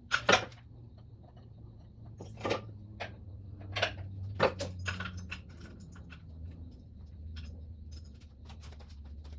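Irregular metallic clinks and knocks from hand work on a car, sharpest near the start and in the middle, over a steady low hum.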